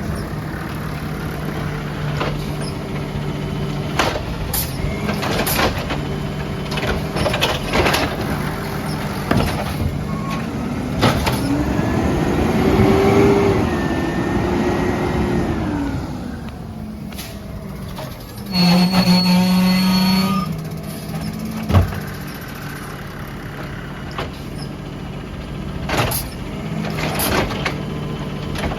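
Peterbilt 320 garbage truck working: its engine runs steadily under scattered clanks and knocks. In the middle a whine rises, holds and falls away, typical of the truck's hydraulics cycling. Later there is a loud steady tone for about two seconds.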